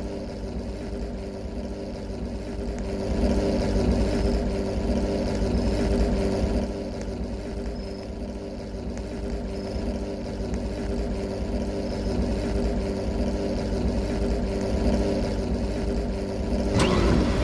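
Car engine running steadily with a low hum, with a sudden louder noise near the end.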